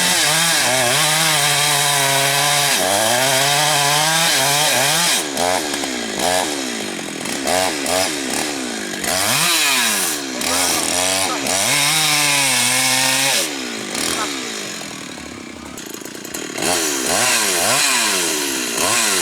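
Large Husqvarna two-stroke chainsaw cutting rain tree wood: steady at full throttle for the first few seconds, then revving up and down repeatedly. It drops lower for a couple of seconds past the middle before revving up again.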